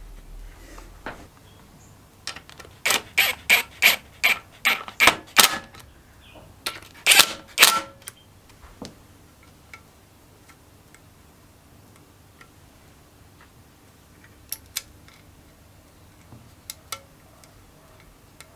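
Sharp metallic clicks from hand tools and parts during engine assembly: a quick run of about four clicks a second, then a few louder clicks, then only scattered light ticks.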